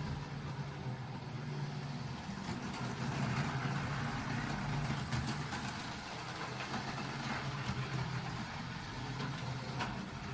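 Model train running on a layout's track: a steady motor hum with a few light clicks from the wheels on the rails.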